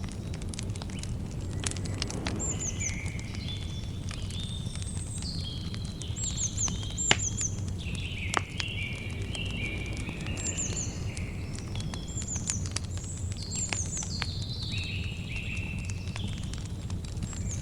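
Campfire crackling, with scattered sharp pops over a steady low rumble and one louder pop about seven seconds in. Birds sing repeated high chirping, warbling phrases throughout.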